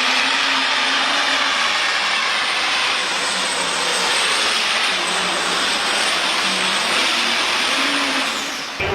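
Loud, steady roar of a pulling tractor's engine at full power, with a thin high whine held throughout. It cuts off abruptly just before the end.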